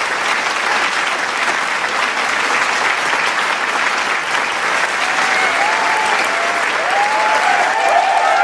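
Large crowd applauding, dense steady clapping, with cheering shouts and whoops joining in about five seconds in and growing toward the end.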